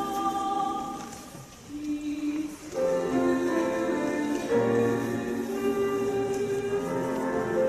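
Choir singing a slow song in long held notes over accompaniment. About a second and a half in the voices thin to a single low tone, then the full chorus comes back in just before three seconds.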